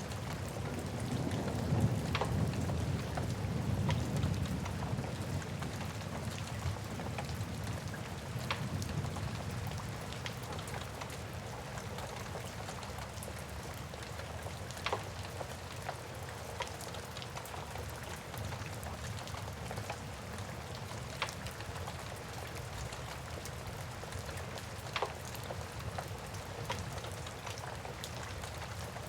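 Steady rain with a wood fire crackling over it, a sharp pop every few seconds. A low rumble swells in the first few seconds and then settles.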